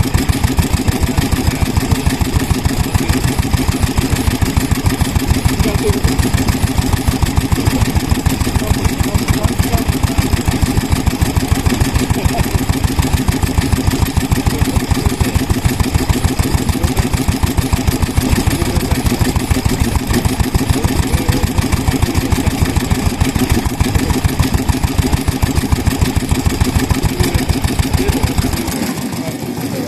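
Vintage stationary kerosene engine running with a steady, rapid exhaust beat. Near the end the low beat drops away.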